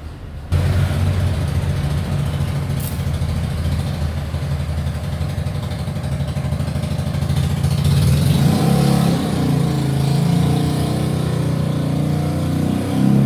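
A motor vehicle engine running steadily, its pitch shifting up about eight seconds in.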